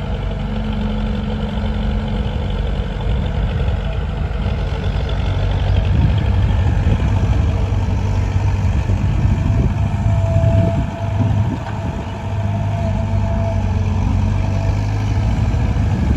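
Heavy diesel engine running steadily, getting louder about six seconds in, with a brief dip in level around eleven seconds.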